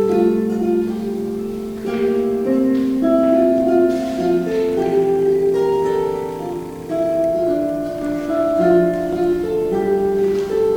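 Harp played solo: a slow melody of plucked notes over low bass notes, each note left ringing so the notes overlap.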